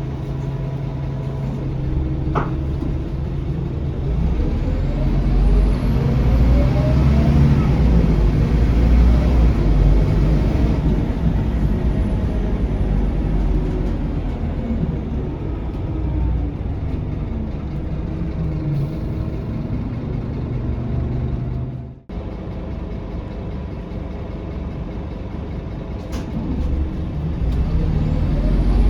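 Scania K230UB city bus heard from inside: the diesel engine idles, then pulls away with a rising pitch through gear changes, slows with a falling whine, and pulls away again near the end. The sound cuts out for a moment about two-thirds of the way through.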